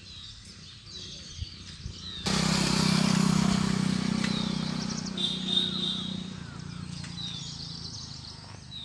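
Small birds chirping repeatedly. A loud rushing noise with a low hum starts suddenly about two seconds in and fades away slowly over several seconds.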